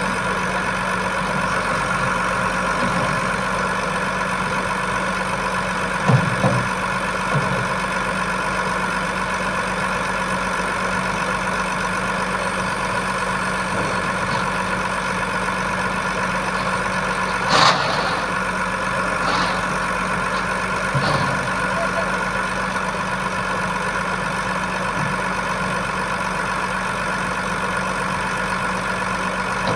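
Iveco boom truck's diesel engine idling steadily, with a few short knocks over it, the loudest about 18 seconds in.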